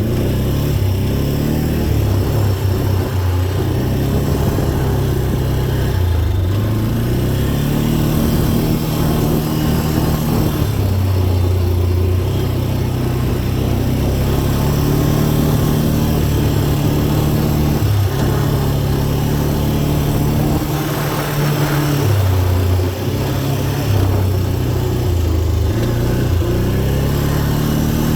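Dirt bike engine ridden along an off-road trail, revving up and dropping back again and again as the throttle opens and closes and it shifts gears.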